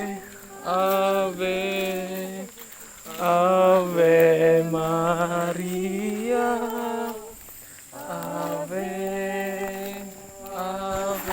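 Slow sung Tagalog hymn to Mary, in long held notes with short pauses between phrases.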